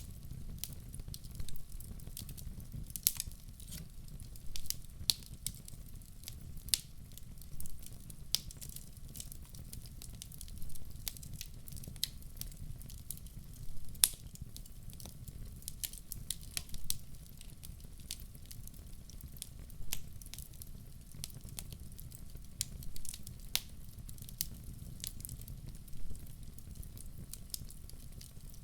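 Wood fire burning in a fireplace: a steady low rumble of flames with irregular sharp crackles and pops, the loudest about three seconds in and midway through.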